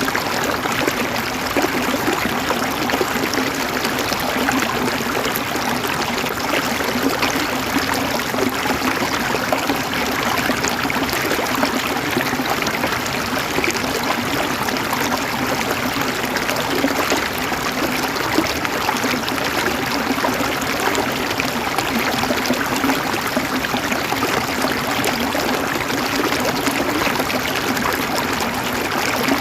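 River water flowing and burbling over stones, a steady rushing with fine trickling and gurgling detail throughout.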